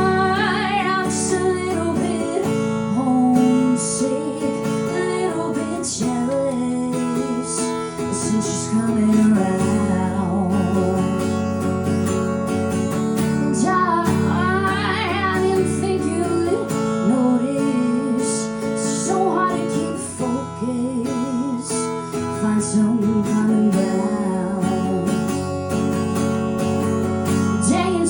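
Acoustic guitar strummed in a steady rhythm, with a few wordless sung notes, during an instrumental stretch of a live singer-songwriter song.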